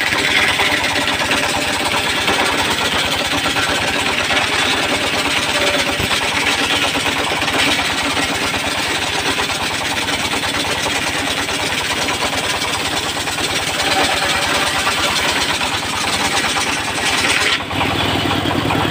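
An engine running steadily with a fast even pulse, its sound changing abruptly near the end.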